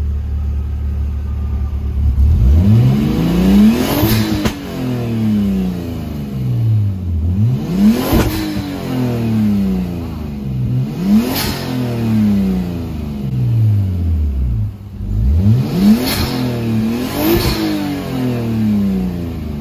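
RB25DET Neo turbocharged straight-six in a Nissan 240SX idling, then revved about five times while parked. Each rev rises quickly with a brief sharp burst at the top and falls slowly back toward idle.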